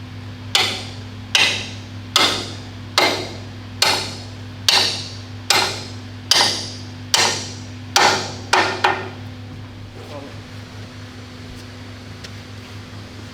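Hammer blows on a steel pin in the gun's arm, driving it home: about a dozen strikes, roughly one a second, the last two quicker, then they stop.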